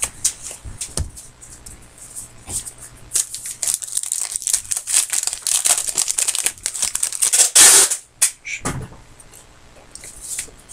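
A trading-card pack's wrapper crinkling and being torn open, with cards clicking and sliding against each other. The crinkling builds about three seconds in and ends in one loud rip near the end.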